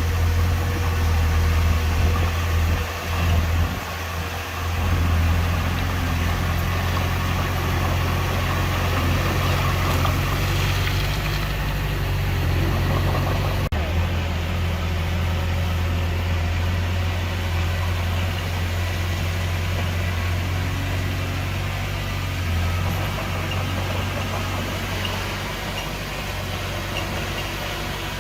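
Heavy diesel engine of earthmoving machinery running with a steady deep drone, unsteady for the first few seconds, then even.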